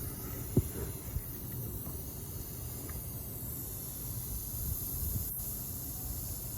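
Air hissing steadily out of a leaking truck tire at a nail puncture, with a low rumble of wind on the microphone. A single sharp knock about half a second in.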